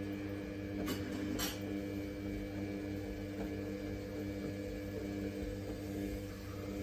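Samsung WF1700WRW front-loading washing machine running mid-cycle, a steady hum with constant tones, with two short clicks about a second in.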